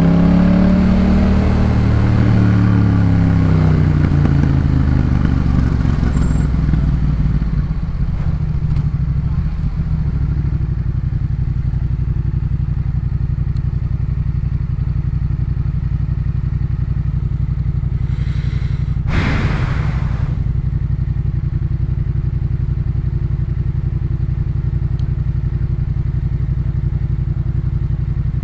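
2018 Yamaha MT-07's 689 cc parallel-twin running through a Jeskap K4 full exhaust. The revs climb briefly and then fall away over the first ten seconds, and the engine settles into a steady idle. A short rushing noise comes about two-thirds of the way in.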